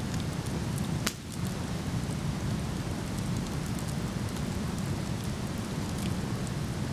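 Steady rushing of a waterfall with a wood fire crackling over it, and one sharp pop about a second in.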